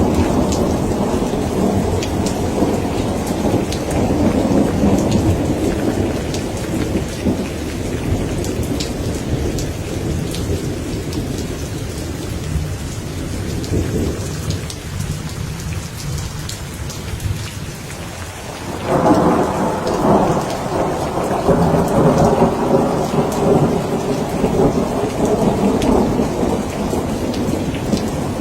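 Steady rain pattering, with rolling thunder rumbling underneath. The rumble dies away over the first two-thirds, then a new peal breaks in suddenly and keeps rumbling to the end.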